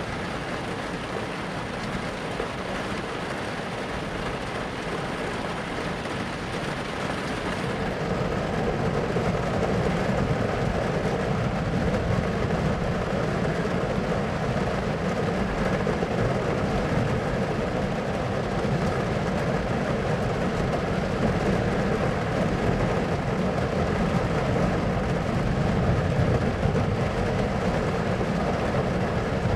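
Steady rainstorm noise with a low rumble, growing louder about eight seconds in.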